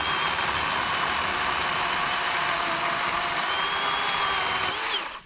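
Worx 40-volt electric chainsaw with an 18-inch Oregon bar cutting up into a downed tree trunk from underneath, its motor whining steadily under load with the chain chewing through the wood. The whine rises briefly and then stops near the end as the trigger is released.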